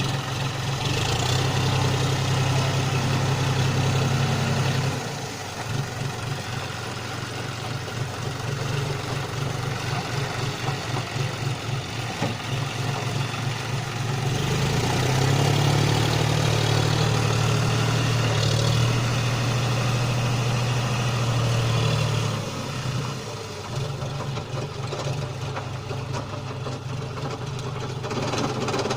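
John Deere four-wheel-drive tractor's diesel engine running steadily as it works in mud. It is louder for the first few seconds, eases off, swells again for several seconds in the middle, then eases off near the end.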